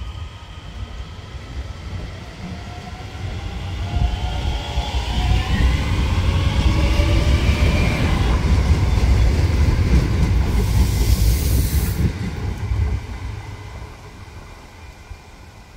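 DART electric commuter train pulling out and accelerating past: the traction motors whine in several tones that rise in pitch, under a wheel-and-rail rumble that builds as the carriages go by. A short high hiss comes about eleven seconds in, then the sound fades as the train draws away.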